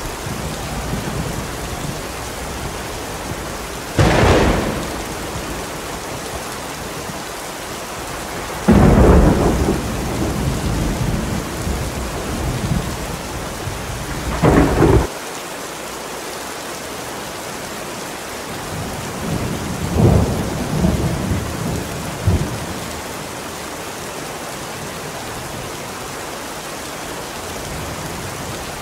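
Steady heavy rain with repeated thunder: loud claps and rolling rumbles about 4, 9, 15 and 20 seconds in, the one near 9 seconds the longest and loudest. The rain runs on alone in the last part.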